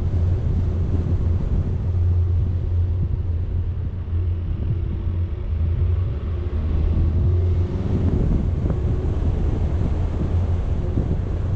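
Steady low rumble of a vehicle on the move, with wind buffeting the microphone; a faint engine note rises through the noise partway through.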